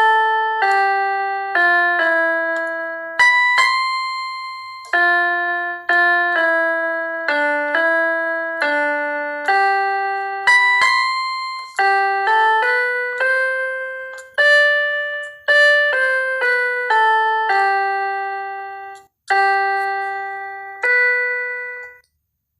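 Keyboard playing a slow, hymn-like tune in chords with no bass, each chord struck and left to fade before the next, about one a second. It stops briefly twice near the end.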